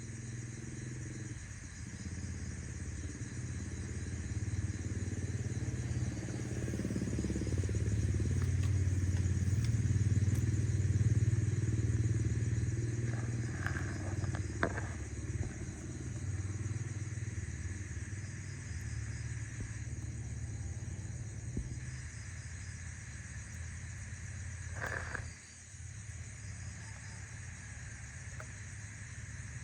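Low engine rumble that builds up and fades away over about twenty seconds, like a motor vehicle passing at a distance, with a few faint clicks.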